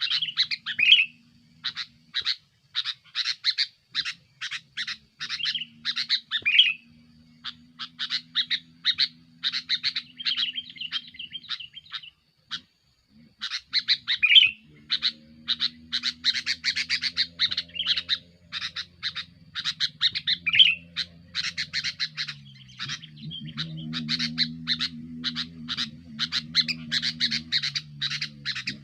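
Sooty-headed bulbul (kutilang) calling busily in rapid runs of sharp chirps, with the odd slurred whistled note and a brief pause about halfway. A faint low hum runs underneath and drops in pitch about three-quarters of the way through.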